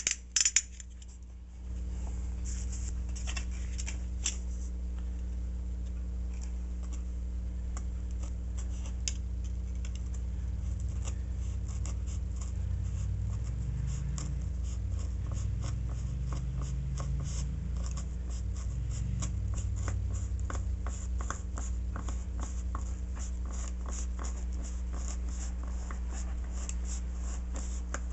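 Snap-off-blade utility knife slicing through foam in many short scratchy strokes, over a steady low hum.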